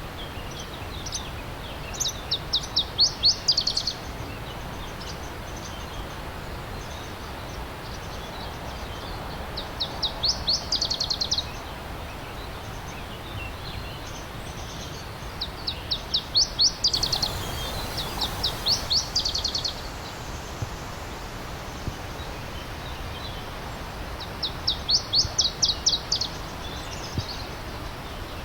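A songbird repeating a short phrase of rapid high notes, five times with gaps of several seconds, over the steady rush of a stream.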